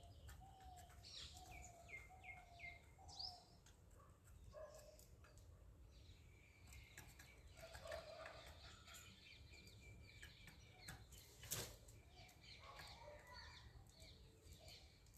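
Faint birdsong: several birds chirping and calling, opening with a short run of four or five repeated whistled notes, with one sharp click about eleven seconds in.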